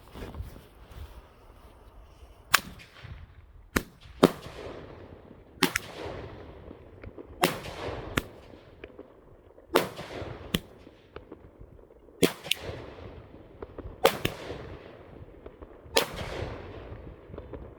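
Fireworks going off outdoors: about a dozen sharp bangs, some in quick pairs, coming every second or two, each trailing off in a fading echo.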